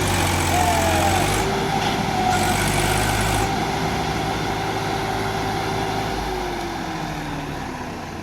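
Tractor diesel engines running hard in a mud recovery pull, with the engine note held steady and then dropping in pitch from about six seconds in as the revs come down.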